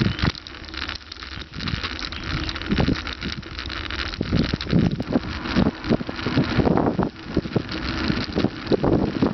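Bicycle rattling and clattering over rough, bumpy ground, with wind buffeting the microphone.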